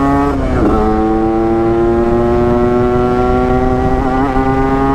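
Yamaha RX-King 135cc two-stroke single under way. Its exhaust note drops in pitch with an upshift about half a second in, then climbs steadily as the bike accelerates in the next gear.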